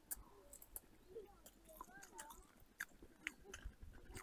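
A person chewing a mouthful of fried chicken: faint, scattered small clicks of biting and chewing.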